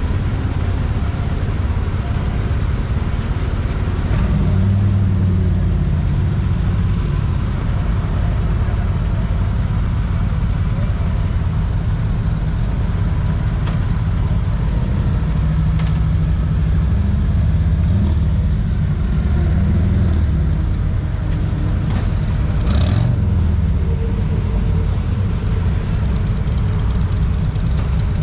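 Motorcycle engine running at low revs as the bike pulls away and rolls slowly. It swells slightly a few seconds in and again past the middle, with one short knock a little after two-thirds of the way.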